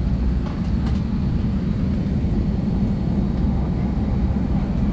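Steady low drone of an Airbus A320-200 passenger cabin before takeoff, with a few faint clicks about a second in.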